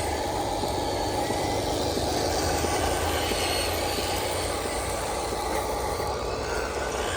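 Radio-controlled model truck driving, giving a steady drone of motor, gearing and tyres.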